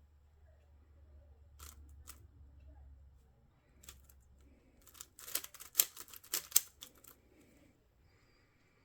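Plastic twisty-puzzle cube being turned by hand: a few scattered clicks of single turns, then a quick flurry of rapid clacking turns about five seconds in that lasts roughly two seconds.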